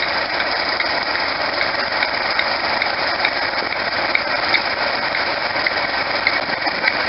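Diesel locomotive engine running steadily and loudly, with light irregular rattles over the drone.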